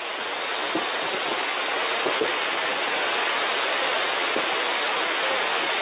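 Steady static hiss from a shortwave receiver on the 40-metre amateur band in single-sideband mode, cut off sharply above about 4 kHz. Only faint, unintelligible traces of a weak voice show through it.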